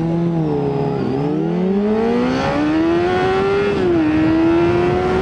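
Honda CBR600RR's inline-four engine accelerating. Its pitch dips about a second in, then climbs steadily before dropping sharply at an upshift a little under four seconds in, and holds level after it.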